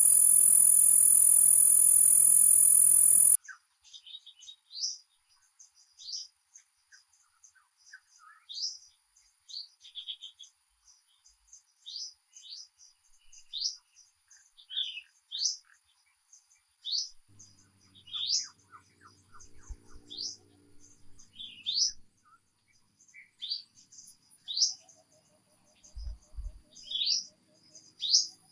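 A loud, steady, high-pitched insect drone cuts off abruptly a few seconds in. A bird then takes over, singing short, sharp chirps repeated about once a second.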